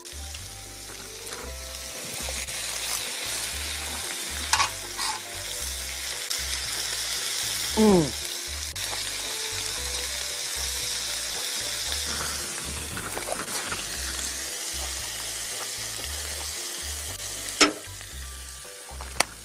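Pork belly, kimchi and vegetables sizzling on a cauldron lid over a wood fire, a steady frying hiss. About eight seconds in there is a short sound that slides down in pitch, and a sharp click comes near the end.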